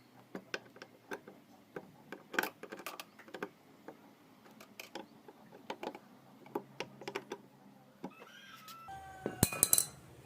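Irregular light clicks and taps of small parts and tools being handled, with a louder quick cluster of clicks near the end.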